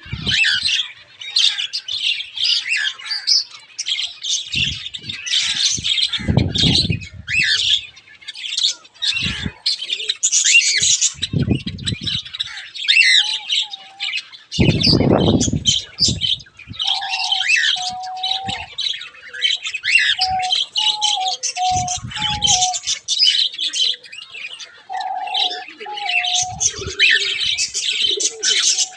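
A crowd of aviary birds chirping and calling without a break. Low cooing notes come in about halfway through. There are also a few low thuds.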